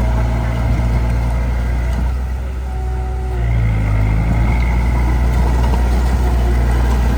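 Heavy diesel engine of earthmoving machinery running, easing off about two seconds in and picking back up about a second and a half later.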